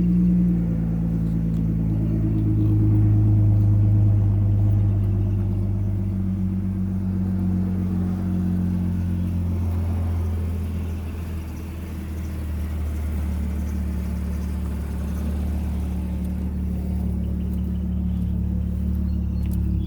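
Exhaust of a 2015 Audi A6 3.0 with the muffler deleted (straight pipe), idling after a cold start with a steady, deep exhaust note. The idle settles to a slightly lower pitch about halfway through.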